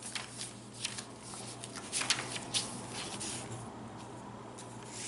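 Paper rustling and soft crisp ticks as the pages, flaps and tucked cards of a handmade junk journal are handled and turned. The sounds are irregular, with the loudest cluster about two seconds in.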